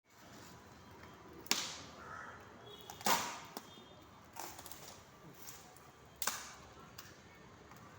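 Several sharp knocks and thumps at irregular intervals over a faint steady hiss, as of things being handled and set down.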